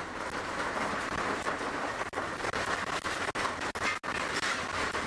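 Steady rushing noise of heavy rain and strong wind, with a few brief dropouts.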